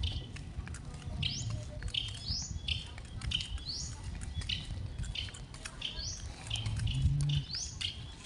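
A bird calling over and over, each call a short note followed by a quick rising sweep, about one call every three-quarters of a second, over a steady low rumble.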